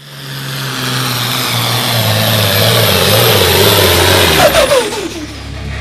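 Super stock pulling tractor's turbocharged diesel engine running hard at full throttle, loud and rising in level, then winding down with a falling pitch about four and a half seconds in.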